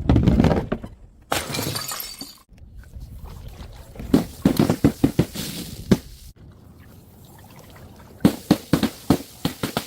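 Glass bottles smashing, several times over, each break followed by a quick run of sharp clinks and clatters as the shards scatter.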